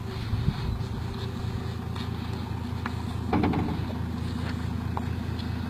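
Engine of a Ford F-250 mega truck idling steadily, with a brief louder clatter about three seconds in.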